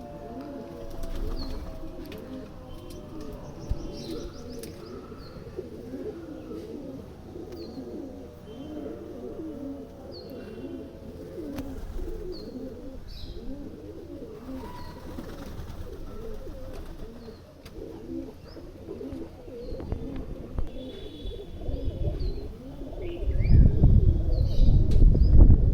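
A flock of Punjabi domestic pigeons cooing together in overlapping calls, with faint high chirps of small birds. Near the end a loud low rumble rises over the cooing.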